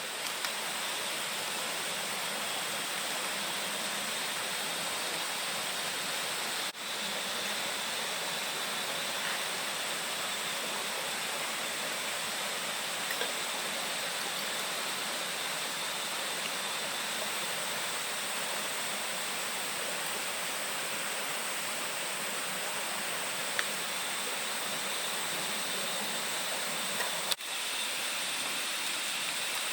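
Steady rushing of flowing water, like a forest stream, dipping for a moment twice.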